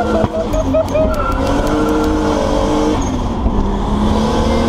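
Car engine running while driving, heard from inside the cabin. Its note holds steady and shifts pitch a few times.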